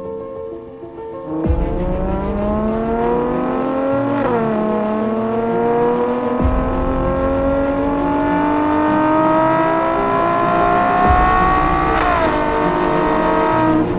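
Ferrari 812 GTS 6.5-litre V12 accelerating hard. The engine note climbs steadily, with two upshifts where the pitch drops suddenly, about 4 seconds and about 12 seconds in. The engine comes in loudly about a second and a half in.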